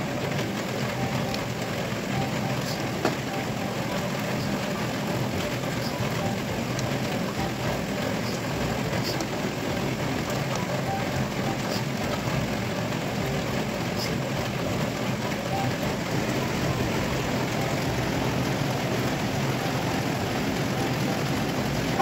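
Steady sizzling of tofu and bean sprouts stir-frying in a pan, with a few light taps and scrapes of a spatula.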